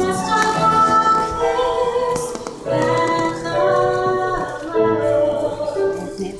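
A woman singing solo in a clear voice, holding long notes in phrases, with musical backing.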